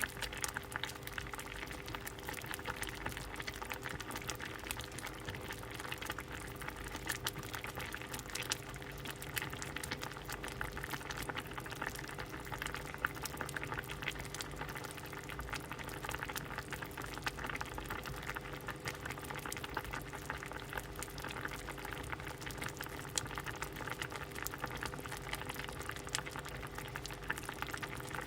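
A pot of soup boiling steadily, with a continuous bubbling and dense small pops. A faint steady hum runs underneath.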